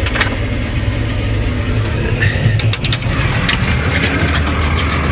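Tractor engine running steadily, with a few sharp clicks or knocks and a brief high squeal partway through. The engine fan bearing is worn, and the owner says it "ain't sounding very good."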